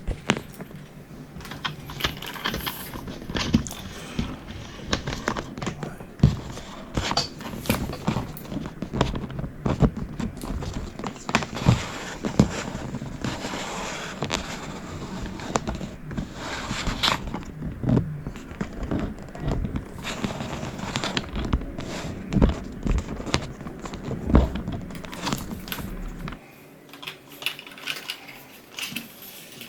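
Irregular clicks and knocks of hard objects being handled, over a low steady hum that stops about 26 seconds in.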